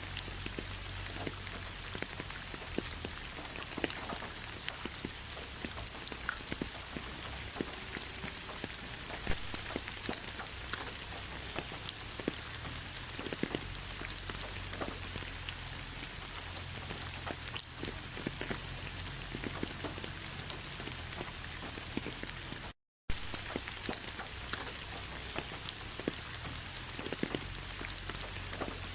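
Steady autumn rain pattering on fallen leaves: an even hiss with many separate drop ticks. The sound cuts out for a split second about two-thirds of the way through.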